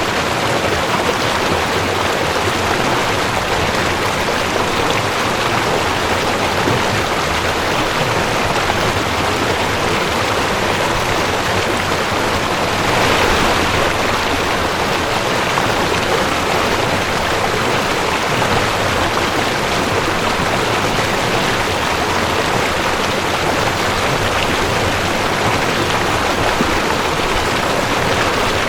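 Mountain stream rushing over rocks: a steady, dense water rush with a slight swell about halfway through.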